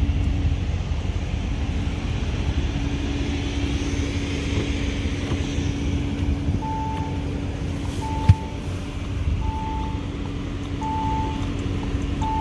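Audi SQ7's 4.0-litre V8 idling steadily. From about halfway a short electronic chime from the car beeps five times, about 1.4 s apart, and a single sharp knock comes about two-thirds of the way in.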